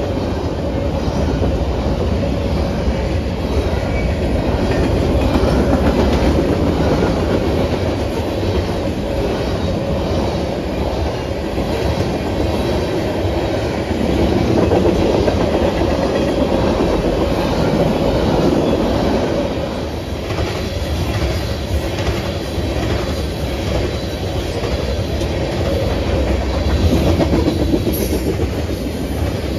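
Freight train cars rolling past at close range: a steady rumble of steel wheels on rail with rhythmic clickety-clack over the rail joints.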